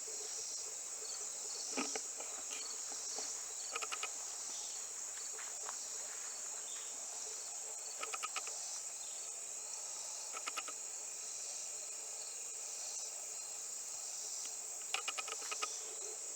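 Steady high-pitched insect chorus, with short bursts of rapid chirps every few seconds; no engine running.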